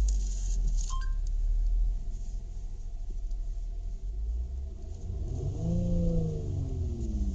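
Nissan V37 Skyline's 3.0-litre V6 turbo engine just after starting, running at a raised idle. About five seconds in it is revved once, its pitch rising and then falling back toward idle.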